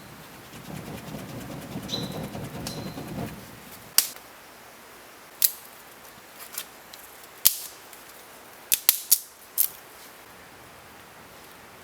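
A couple of seconds of rustling, then a series of sharp cracks or knocks, irregularly spaced, with three coming in quick succession near the end.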